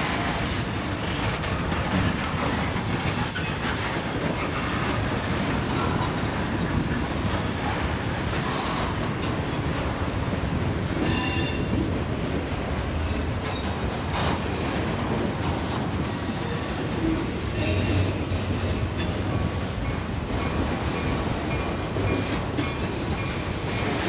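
Freight train rolling past on the adjacent track: a steady rumble of steel wheels on the rails, broken a few times by brief high wheel squeals.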